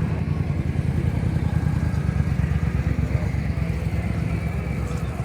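Motorcycle engine running steadily, a continuous low, rapid pulsing exhaust note.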